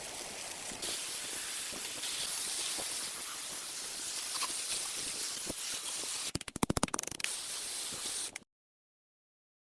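Steady hissing spray, with a quick run of rapid clicks about six seconds in; the sound cuts off abruptly to silence near the end.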